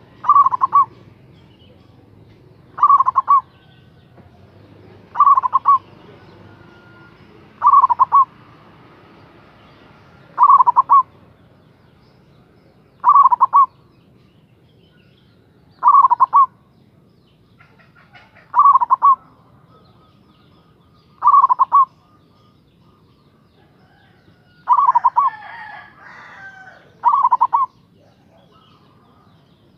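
Zebra dove (local Javanese perkutut) cooing, eleven short coo phrases one about every two and a half seconds. Another bird's rougher call overlaps two of the coos near the end.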